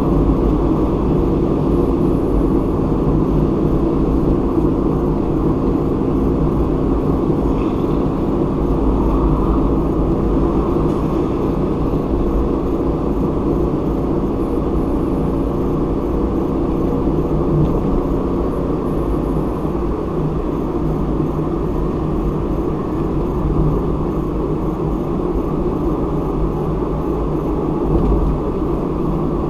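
Car being driven at a steady speed: a continuous low rumble of engine and tyre noise with no sudden changes.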